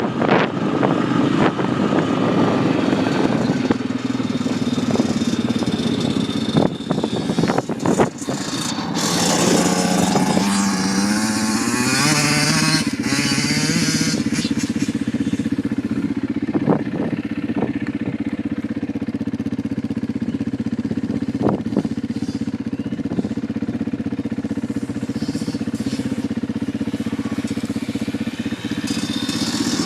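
Small off-road motorcycle engine running while being ridden, its pitch stepping up and down as it revs between about nine and fifteen seconds in, with a few sharp knocks along the way.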